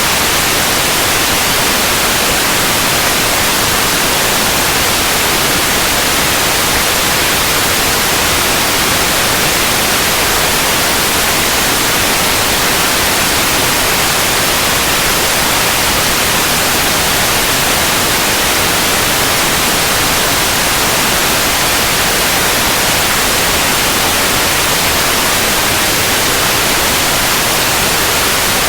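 Steady white noise: an even, unchanging hiss that is brightest in the high frequencies.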